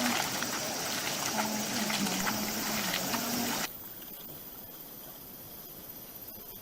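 Rushing, splashing water with small clicks through it, cutting off abruptly about three and a half seconds in to a quieter steady hiss.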